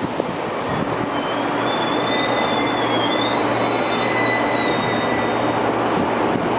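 MTR East Rail line electric multiple-unit train rolling along the platform and slowing to a stop, with a steady rumble from the wheels and running gear. A wavering high-pitched squeal joins in about a second in and fades out after a few seconds.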